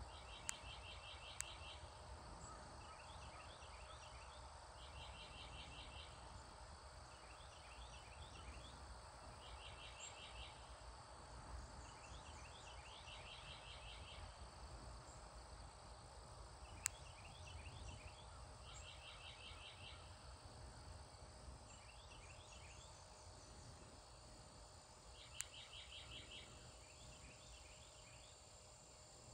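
Quiet outdoor ambience: a bird sings short, rapid high trills every two to three seconds over a low rumble, with a few sharp clicks.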